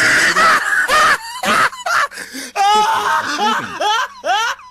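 People laughing, in short loud bursts with sharply rising and falling voices.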